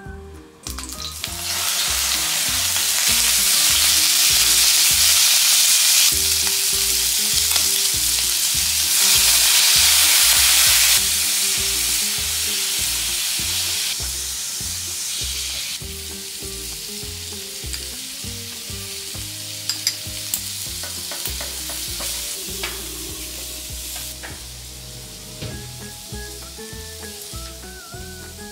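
Squid and avocado sizzling as they are stir-fried in hot rapeseed oil in a non-stick frying pan. The sizzle starts about a second and a half in and is loudest for the first ten seconds or so, then settles to a quieter fry, with a few sharp clicks about two-thirds of the way through.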